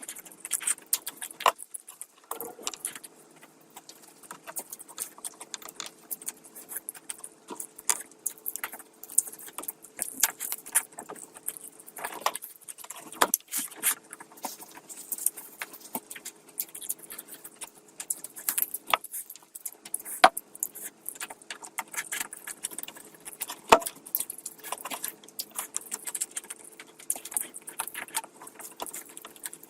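Close-miked eating sounds: irregular wet clicks, smacks and crackles of chewing and handling saucy curry and rice, over a faint steady hum.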